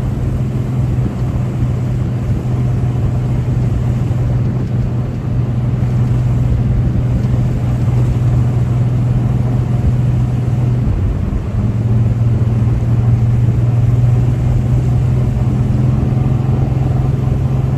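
V8 engine of a Chevy LUV pickup running under way at a steady cruise, a continuous low drone. The engine note dips briefly about eleven seconds in, then comes back to the same pitch.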